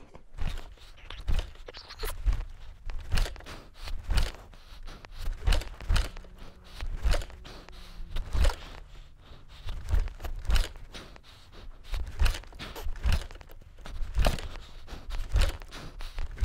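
Dirt bike being kick-started over and over, a low thump with each stroke of the kickstarter about once a second, the engine not catching.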